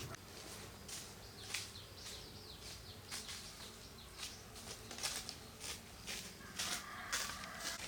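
Irregular rustling and soft crackling, a scatter of short noises like leaves and plant stems being moved.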